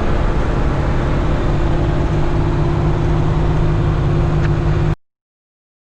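Vehicle running, with steady engine hum and road noise that cut off abruptly about five seconds in.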